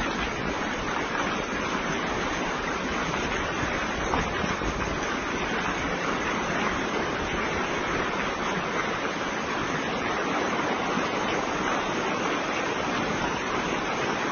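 Steady, unbroken rush of running water, such as floodwater flowing through a street.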